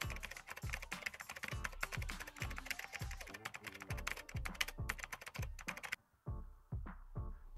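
Fast typing on a computer keyboard, a dense run of key clicks that stops about six seconds in, over background music with a steady low beat.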